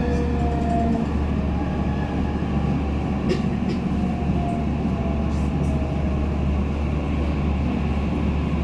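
JR Central 315 series electric train heard from inside the car, running with a steady rumble of wheels on rail. Its motor whine falls in pitch as the train slows toward a station, and there are a couple of short clicks about three seconds in.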